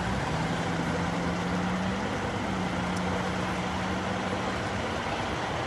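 Street traffic noise with a motor vehicle engine running steadily, heard as a low hum that steps up slightly in pitch about halfway through and stops shortly before the end.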